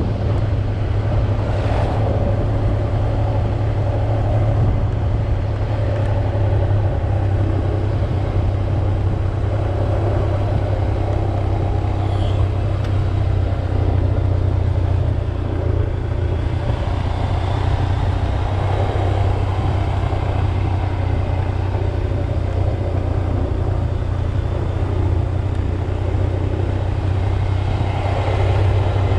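Motorcycle engine running at a steady cruising speed while riding, a constant deep drone with road noise.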